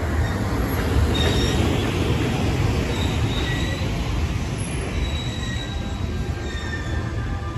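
Empty Koki 107 container flat wagons of a freight train rolling slowly past on the rails, a steady heavy rumble from the wheels. Thin high wheel squeals come and go over it.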